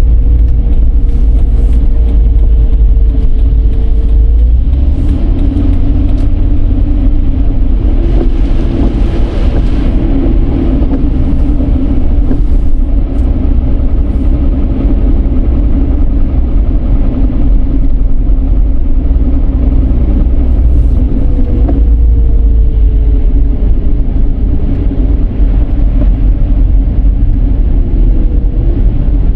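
Car driving on the road: a steady, loud low rumble of engine and tyres, with a faint tone above it that slides slightly lower twice.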